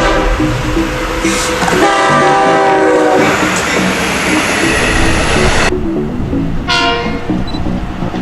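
Long Island Rail Road DM30AC diesel locomotive sounding its horn in separate blasts: a short one at the start, a longer one about two seconds in and another short one near the end, over the continuous rumble of the train.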